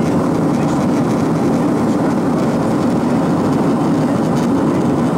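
Airbus A321 passenger cabin in flight: a steady, even drone of engine and airflow noise, strongest in the low range.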